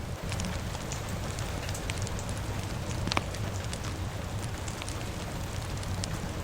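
Rain-and-fire ambience: a fire crackling with many small sharp pops, one louder pop about three seconds in, over a steady hiss of rain and a low rumble.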